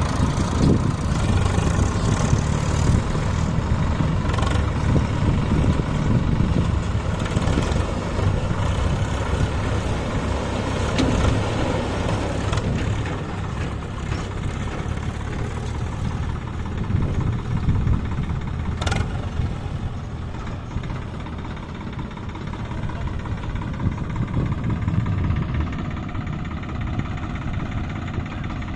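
Tractor diesel engine running steadily under the load of a loaded trolley, with one sharp knock about two-thirds of the way in.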